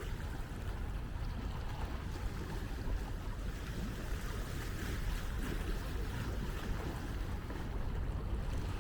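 Wind buffeting the microphone as a steady low rumble, over a constant wash of sea and open-air beach ambience.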